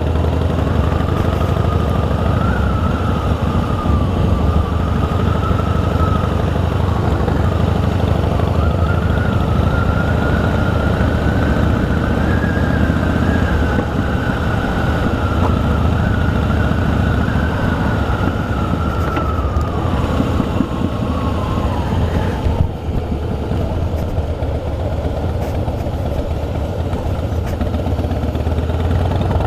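Harley-Davidson Rocker C's V-twin engine running steadily with the motorcycle under way: a deep rumble, with a thin whine above it that wavers gently in pitch and drops out about 22 seconds in.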